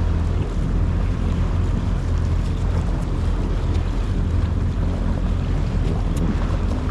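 Jet ski engine running steadily underway, a constant low drone mixed with rushing water and wind buffeting the microphone.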